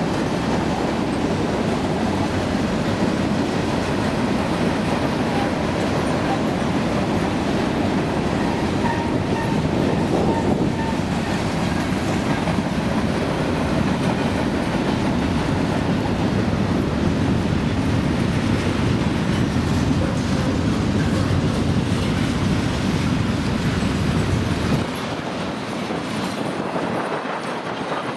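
Freight train rolling past, its cars rumbling with wheels clicking over the rail joints. The rumble drops away sharply about 25 seconds in, leaving quieter noise.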